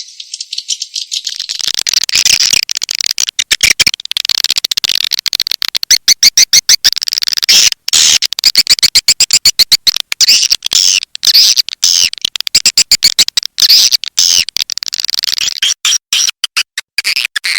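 Swiftlet call recording: a dense, rapid, high-pitched twittering and clicking of edible-nest swiftlets, the kind of lure sound played to draw swiftlets into a nesting house. It fills out and grows louder about a second and a half in.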